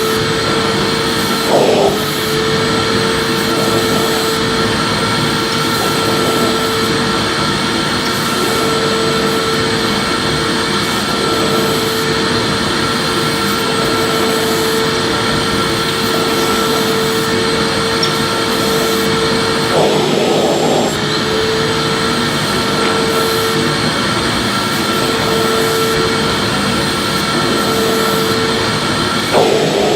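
Electric vacuum cleaner running steadily with a constant whine, with short bumps in its sound three times, as the nozzle is swept over the floor.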